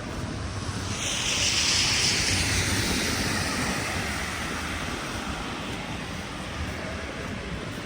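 A vehicle passing close by on a snowy street: its tyre hiss swells suddenly about a second in, then fades away slowly over several seconds as it drops in pitch, over steady street ambience.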